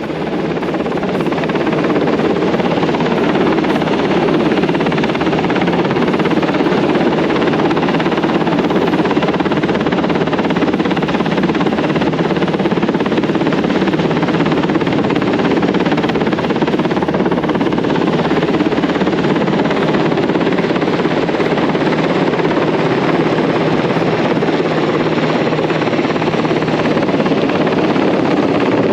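Rescue helicopter's rotor and engine noise, loud and close, swelling over the first couple of seconds and then holding steady.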